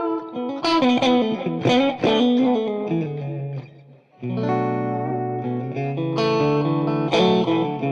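Strat-style electric guitar played through an Xotic RC Booster clean boost pedal into a lightly driven amp tone: picked notes for about three seconds that die away, then ringing chords.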